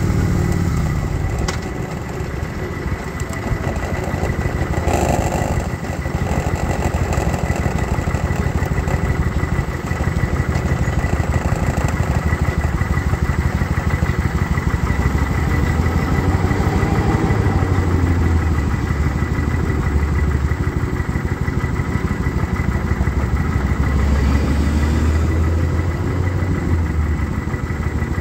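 Kawasaki Vulcan 900 Classic SE's V-twin engine running as the motorcycle rolls down the street and slows, then idling steadily at a stop, heard close up from the handlebars.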